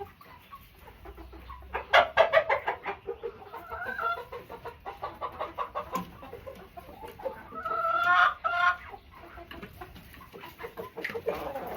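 Backyard chickens clucking: rapid runs of clucks about two seconds in and again around the middle, and a longer drawn-out call about eight seconds in.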